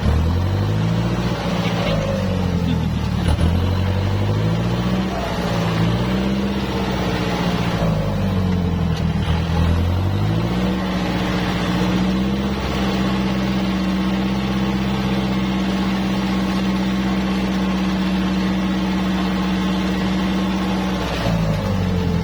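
Kubota tractor's diesel engine running under changing load, its pitch rising and falling over and over for about ten seconds, then holding steady for roughly ten seconds before dropping again near the end.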